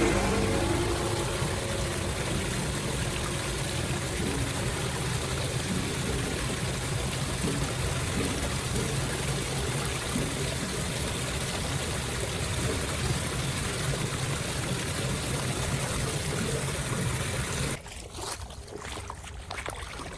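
Steady rush of floodwater draining away through a cleared storm drain. Near the end it drops suddenly to a quieter flow with a few knocks.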